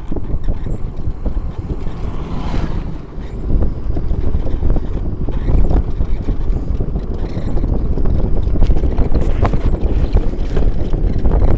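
Wind buffeting the microphone: a heavy, gusty low rumble with scattered crackles, growing somewhat louder about two thirds of the way through.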